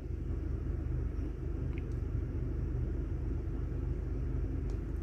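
Steady low rumble of a Chery Tiggo 8 idling, heard inside its cabin, with one faint small tick a little under two seconds in.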